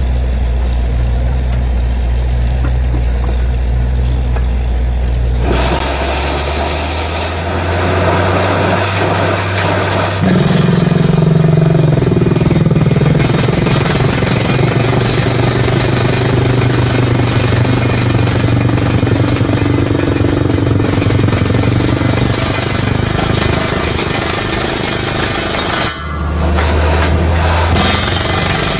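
Borewell drilling rig at work: the rig's engine runs low and steady, then about five seconds in the drilling starts with a loud, even noise over the engine. Near the end it breaks off for a moment, the low engine hum alone returns briefly, and then the drilling noise starts again.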